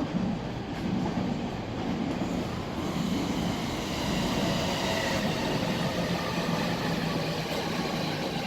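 Electric train pulling into a station platform: steady running noise with a low hum and higher steady tones, building up about a second in and staying loud.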